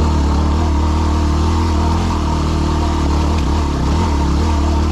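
Yamaha WR250R dual-sport motorcycle's 250 cc single-cylinder four-stroke engine running steadily under load as the bike climbs a rocky trail.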